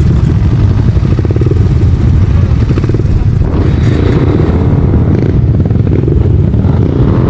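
Motorcycle engine running steadily under way on a dirt trail, its exhaust pulses loud and close.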